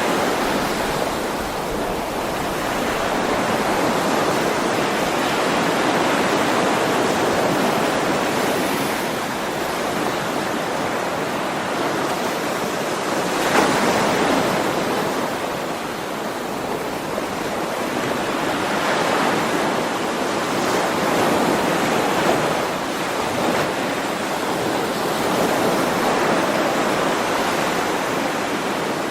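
Ocean waves washing onto the shore in slow swells that rise and fall every few seconds, with one louder surge about halfway through.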